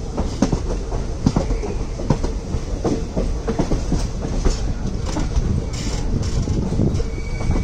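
Indian Railways passenger coach running at speed, heard from beside the coach: a steady low rumble with an irregular clatter of wheels over rail joints.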